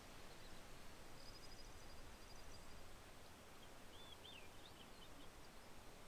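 Quiet outdoor ambience with faint bird calls: a high rapid trill about a second in, then a few short twittering notes near the end.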